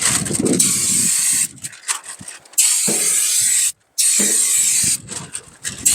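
Turbo Can aerosol spray paint hissing out in three bursts of about a second each, with wind rumbling on the microphone under the first and third.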